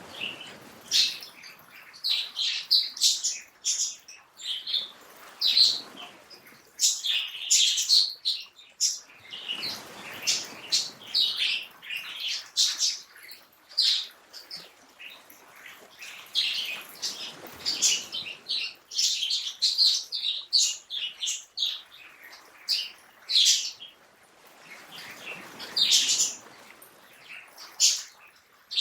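Songbirds chirping and twittering in quick, short calls, several overlapping. Beneath them a soft rushing noise swells and fades every eight seconds or so.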